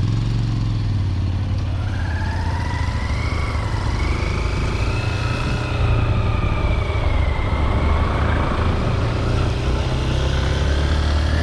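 Motorcycle engine running steadily while riding, with wind and road noise. A higher whine climbs over the first few seconds and then eases back down.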